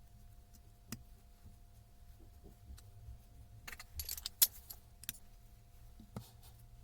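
Small metal parts clinking and tapping as they are handled: scattered light clicks, with a brighter clatter about four seconds in, over a low steady hum.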